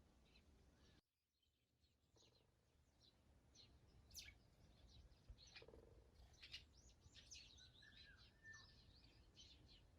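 Faint birdsong: several small birds chirping and calling with short high notes, the calls growing busier in the second half. About a second in the background hush drops out abruptly and fades back in.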